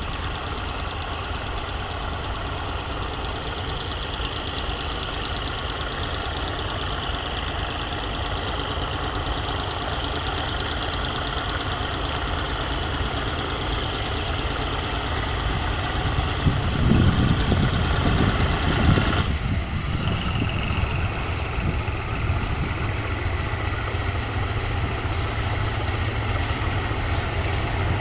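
Heavy diesel engine idling steadily, most likely a locomotive's, with a deeper, louder rumble for a few seconds a little past the middle and a brief break about two-thirds in.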